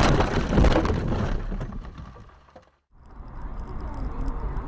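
Loud crashing noise of a vehicle collision that dies away over about two seconds and cuts off, followed by steady road-traffic noise.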